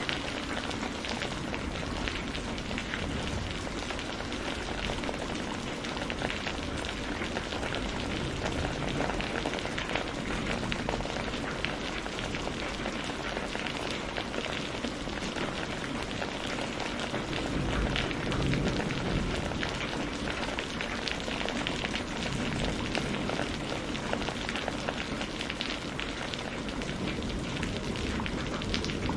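Steady rain falling and pattering on surfaces, an even hiss with fine crackling drops.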